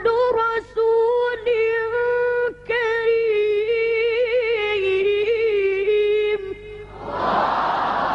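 A child's high voice chanting Quran recitation (tajweed) in long, ornamented held notes that waver up and down. Just before the end, the voice stops and a steady crowd noise rises.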